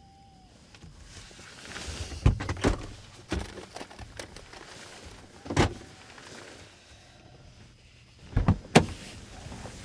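Sharp knocks and clicks of a car's fittings being handled: a pair about two seconds in, one near the middle, and another pair near the end, over a faint low rumble.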